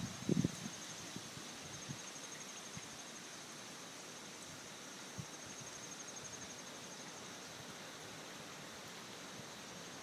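Steady hiss of storm wind in the trees, with a brief gust buffeting the microphone about half a second in. Over it, insects keep up a fast, even, high-pitched trill.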